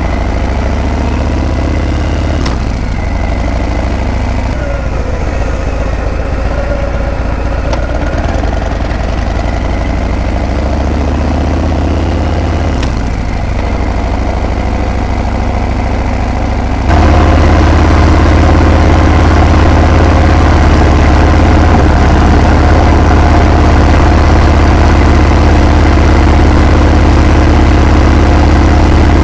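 Harley-Davidson Breakout's V-twin exhaust on the move, its note rising and falling with changes of engine speed. A little past halfway it cuts abruptly to a louder, steady engine note.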